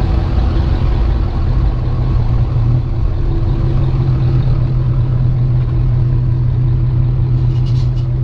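Motor vehicle engine running steadily at idle, a constant low rumble.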